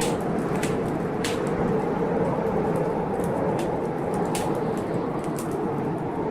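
Steady rush of heavy blizzard wind, with irregular sharp crackles and pops from a wood fire burning in a fireplace.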